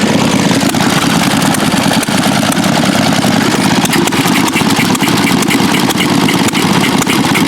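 Small antique gasoline engines running steadily together, a dense, even run of exhaust pops.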